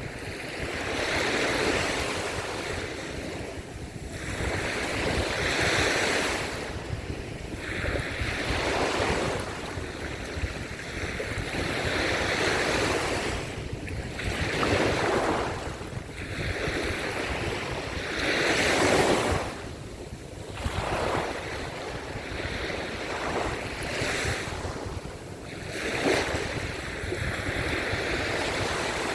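Small sea waves breaking and washing up a sandy beach, a rush of surf that swells and fades every three to four seconds, with wind buffeting the microphone.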